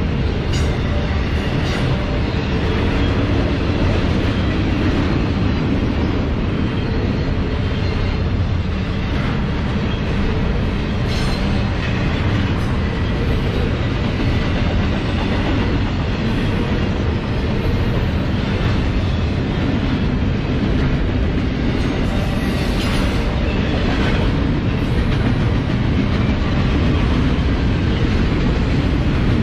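Double-stack intermodal freight cars rolling past fast: a steady loud rumble of steel wheels on the rails, with a few sharp clacks along the way.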